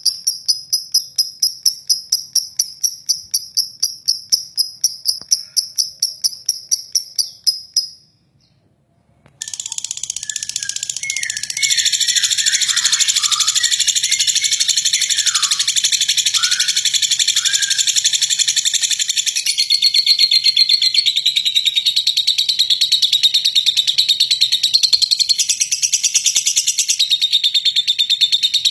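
A rapid, steady high chirping at about five pulses a second for the first eight seconds. After a second-long break, a lovebird sets off on long, harsh, continuous chattering ('ngeklek panjang kasar'): dense high trills mixed with quick falling squeaks.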